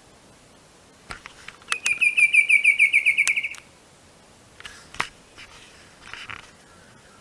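Bicolored antvireo singing: a fast, even run of about fifteen clear notes lasting about two seconds, dropping slightly in pitch. A few softer, shorter calls follow.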